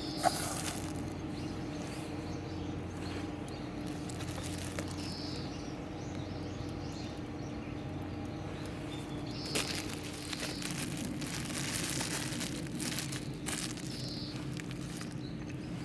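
Wood campfire crackling with scattered sharp pops, busier in the second half, while a bird chirps briefly every few seconds over a steady low hum.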